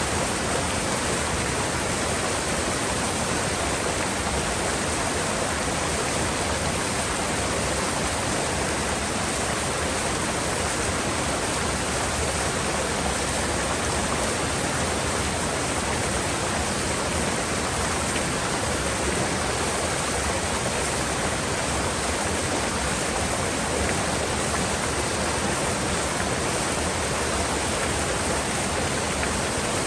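Mountain river water rushing steadily, a constant even hiss with no breaks.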